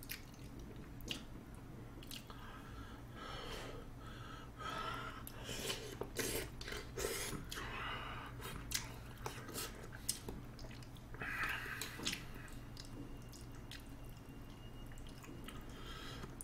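A person chewing food close to a microphone, with scattered small wet clicks and smacks from the mouth and utensils.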